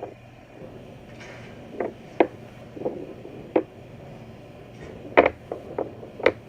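A series of light knocks and clicks, about ten, irregularly spaced, with the sharpest a little after five seconds in and just after six.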